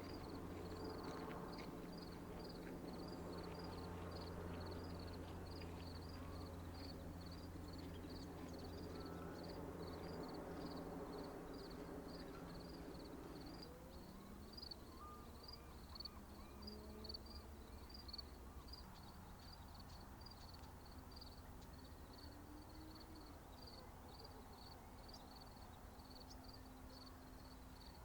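An insect chirping in a steady, even, high-pitched rhythm of about two to three chirps a second, typical of a cricket. Under it runs a low hum that fades about halfway.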